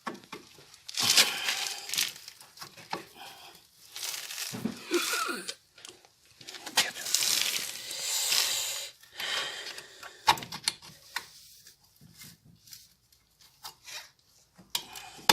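Scraping and rustling of metal brake parts being worked, in three stretches, then a few sharp clicks and knocks as a brake shoe and its return spring are pushed and fiddled into place. The shoe is not going in.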